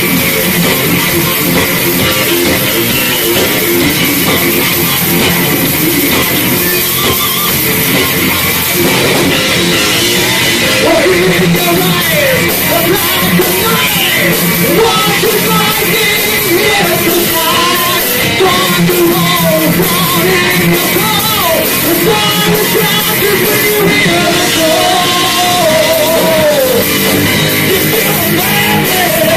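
Live heavy metal band playing loud distorted guitars and drums, with a vocalist singing over it from about ten seconds in.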